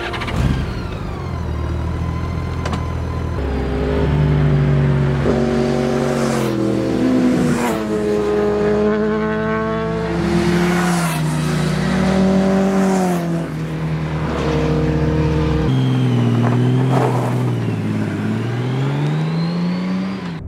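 Motor vehicle engine accelerating and easing off, its pitch climbing and dropping several times as if through gear changes.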